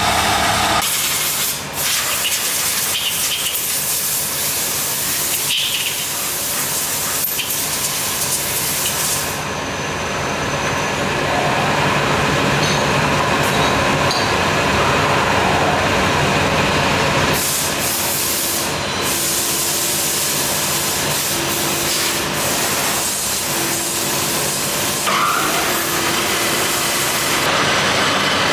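Factory machinery noise with a steady hiss, changing character abruptly several times as the shots change.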